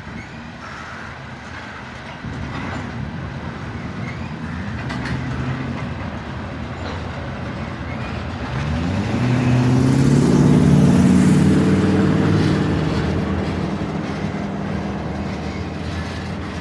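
Long freight train of tank cars rolling slowly past, a steady rumble of wheels on the rails. About eight seconds in, a droning engine sound rising in pitch swells up, is loudest a few seconds later, then fades.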